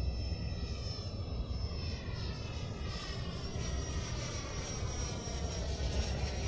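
Electric ducted-fan RC jet in flight: a steady high-pitched fan whine over a slowly falling whoosh, with low wind rumble on the microphone.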